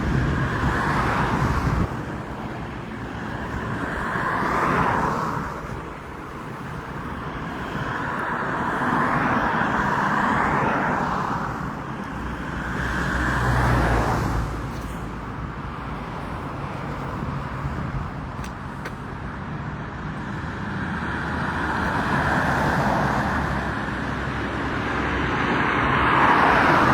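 Road traffic: several cars passing one after another, their tyre and engine noise swelling and fading every few seconds over a steady background hum.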